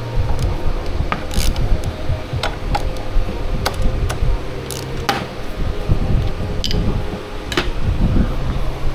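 Metal hand tools and brake parts clinking, tapping and scraping at irregular moments, over a steady low hum.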